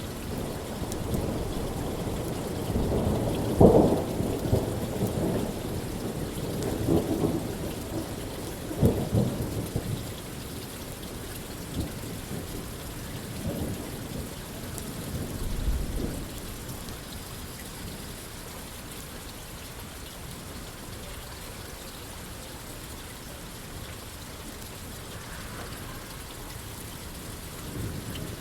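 Steady rain falling on a roof. A long, low, crackling rumble swells in the first few seconds, peaks at about 4 and 9 seconds, and dies away by about 16 seconds, leaving the even patter of rain.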